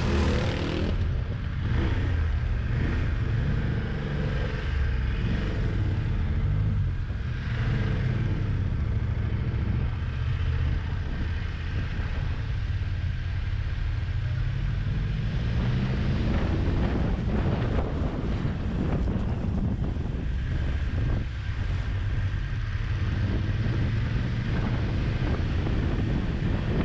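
Motorcycle engine running under way, a steady low rumble whose pitch shifts a little with the throttle, with wind rushing over the microphone.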